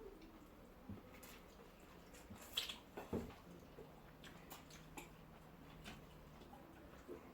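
Quiet eating sounds: scattered faint clicks and chewing while a meal of rice and stew is eaten, the loudest click about two and a half seconds in.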